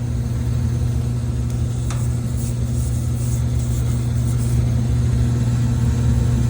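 1978 gas furnace running, its blower motor giving a steady low hum, with one faint tick about two seconds in.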